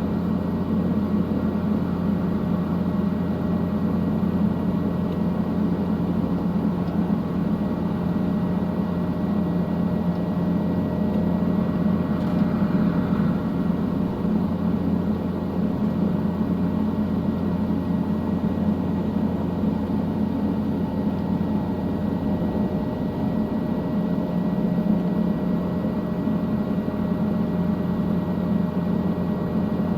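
Helicopter engine and rotor noise heard from inside the cabin: a steady drone with a few faint held tones above it.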